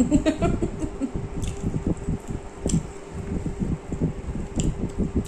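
Close-miked eating sounds of chicken curry and rice eaten by hand: irregular chewing and mashing, with a few sharp wet mouth clicks. A steady low hum sits behind it.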